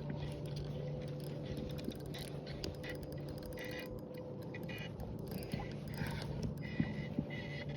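Fishing reel being worked in short spells, with small clicks and raspy scraping, while a hooked bass is snagged around a log. A steady low hum runs underneath.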